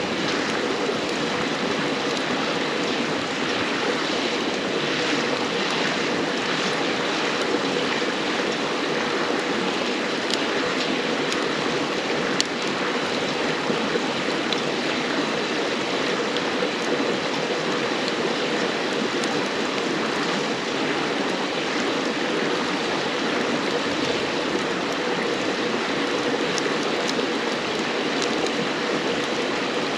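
A river babbling steadily, with a few small crackles and pops from a wood campfire. There is one sharper pop about twelve seconds in.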